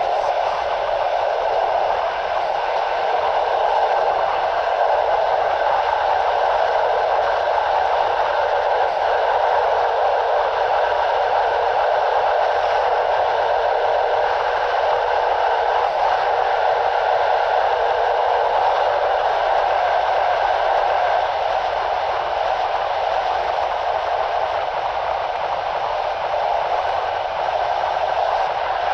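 Passenger train coach running at speed, picked up at the coach window: a steady rolling rush of wheels on the rails mixed with air noise, with no breaks or changes.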